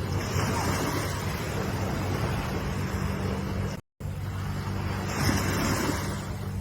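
Ocean waves washing in, swelling twice about five seconds apart, over a steady low hum. The sound cuts out briefly just before halfway, as at an edit.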